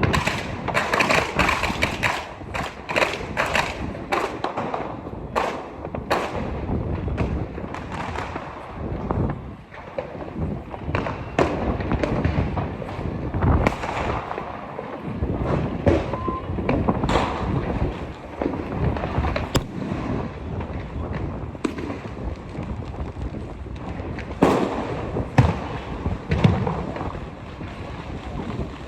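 Deepavali fireworks and firecrackers going off: a quick run of sharp bangs over the first several seconds, then scattered bangs through the rest.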